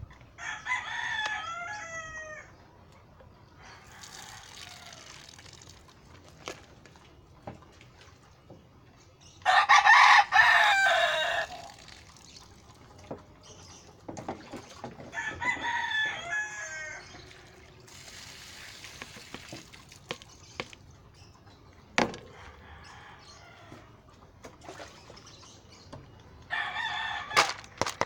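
Game fowl roosters crowing: four long crows, the loudest around the middle, with softer scratchy noises and a few clicks between them.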